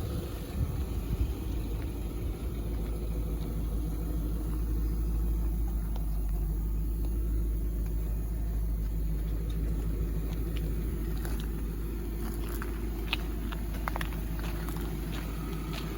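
Audi V8 Quattro's V8 engine idling steadily, a low, even rumble heard from outside the car. A few light clicks come in over the last few seconds.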